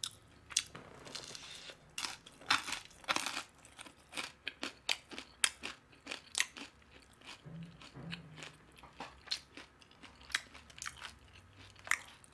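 Crunchy chewing of fried chicken close to the microphone: a steady run of irregular crisp crunches and bites.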